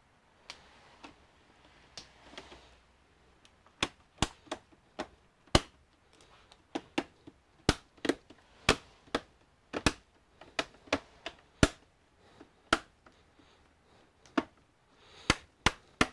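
A long run of sharp, irregular plastic clicks as the all-in-one's screen panel is pressed into its frame, its retaining clips snapping home one after another.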